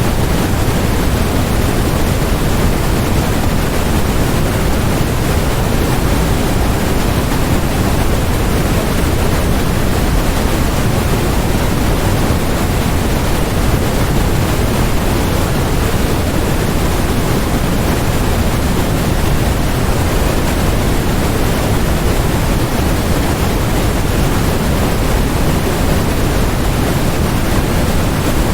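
Steady generated noise, sold as white noise: a constant, even hiss that never changes, fuller in the low end than the high.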